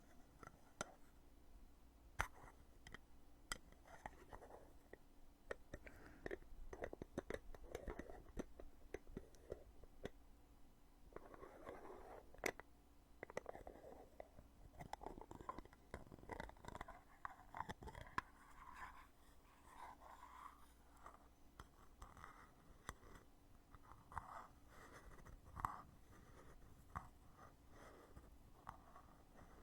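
Lid of a cosmetic foundation container opened and closed again and again, faint and close-up: sharp plastic clicks with soft scraping and rubbing between them.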